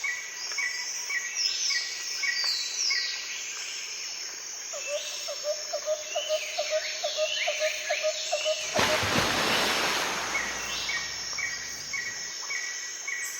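Several birds chirping and calling together in many short notes, with a lower call repeating about four times a second for a few seconds in the middle. About nine seconds in, a loud rush of noise rises over the birds for roughly three seconds.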